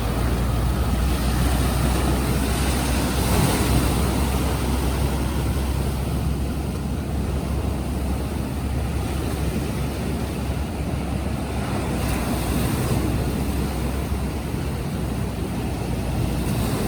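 Waves breaking and wind buffeting the microphone, mixed with the steady drone of a launching boat's outboard motors.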